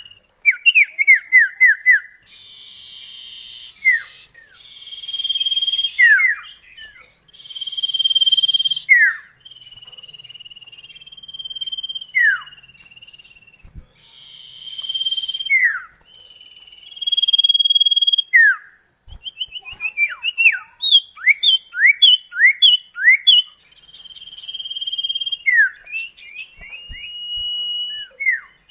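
Common iora (cipoh kacat) singing: long held whistled notes alternating with runs of quick downward-slurred notes, repeated over and over.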